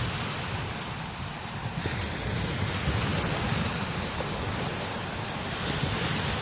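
Strong desert wind blowing over sand dunes, a low rumbling of wind on the microphone under a high hiss of wind-blown sand. The hiss swells and drops in gusts a few times.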